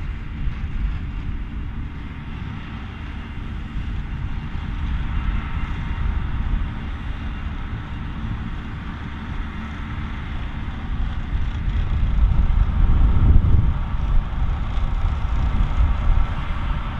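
John Deere 7230R tractor pulling an AVR Spirit 9200 potato harvester while lifting potatoes: a steady low engine-and-machinery rumble that grows louder about twelve seconds in.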